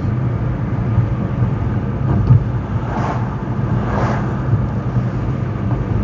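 Steady low rumble of a car driving on the road, engine and tyre noise, with two brief whooshes about three and four seconds in.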